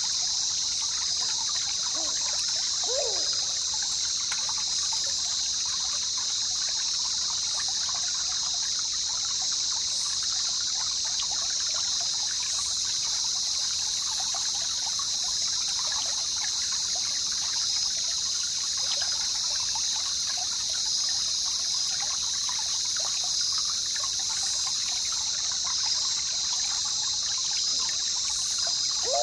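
River water trickling and burbling steadily, with a constant high-pitched drone above it and a brief falling call about three seconds in.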